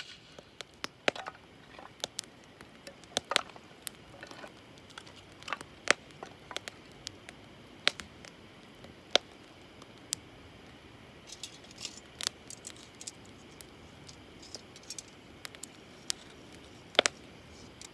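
Wood campfire crackling: sharp, irregular pops and snaps from the burning wood, scattered unevenly, a few every second or two.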